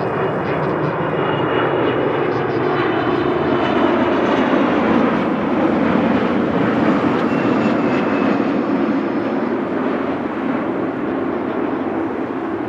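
Jet airliner's engines passing close overhead: a loud rush that swells to a peak midway and then eases, with whining tones that slide in pitch as it goes by.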